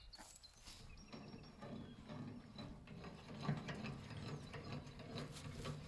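Rapid mechanical ratcheting clicks from a hand-worked ratchet mechanism, over a low steady hum.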